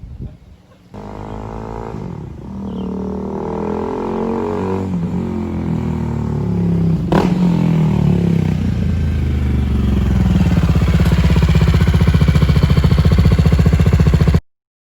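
BMW G 310 GS's single-cylinder engine with a Leo Vince full-system exhaust, running under throttle and growing steadily louder, then cutting off abruptly near the end. There is one sharp click about halfway through.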